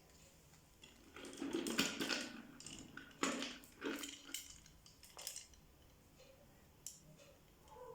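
Small metal objects clinking and rattling against a hard work surface, a run of clatters and clicks in the first half, then a few faint ticks.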